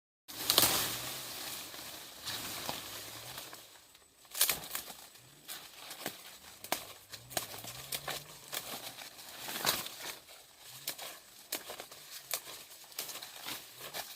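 Rustling and crinkling handling noise, with many sharp clicks and taps scattered through it.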